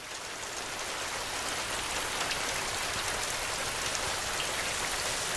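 Steady rain falling on a surface, an even hiss with scattered drop ticks, swelling up over the first second or so.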